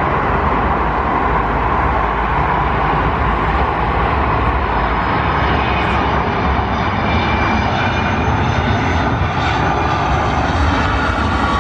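Jet airliner's engines running loud and steady, a dense roar with a faint high whine coming in about halfway through.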